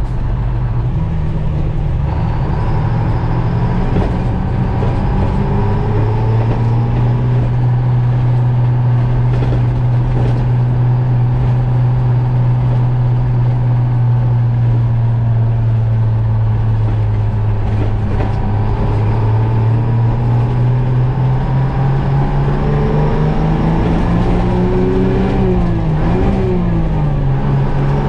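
A Detroit Diesel two-stroke engine in a GMC Crackerbox cabover semi truck, running under load. The engine note climbs, holds steady for a while, then climbs again. Near the end the revs dip sharply twice and recover.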